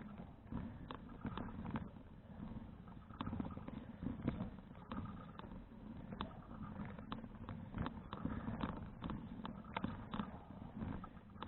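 Low rumble of wind and road on a bicycle-mounted action camera while riding, with irregular light clicks and rattles from the moving bicycle.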